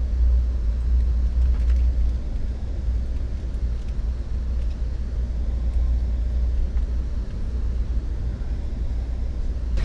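Low, steady rumble of a passenger train rolling slowly, heard from inside the coach.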